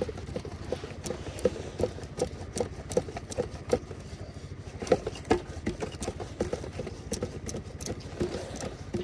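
An engine running with a steady clatter of about four knocks a second over a low, even drone.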